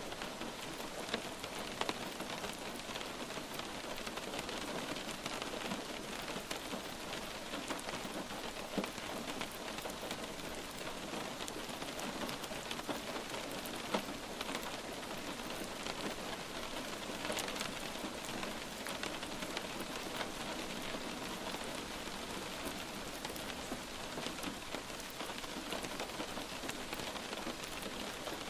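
Light rain falling steadily, an even hiss with many scattered drops ticking on a surface, a few of them a little louder.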